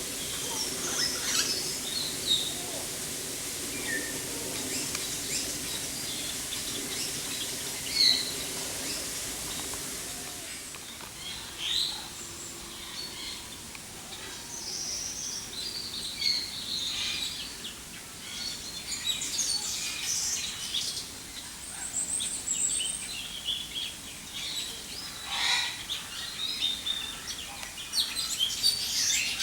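Aviary birds chirping and calling in short, scattered notes, several birds at once, growing busier about halfway through.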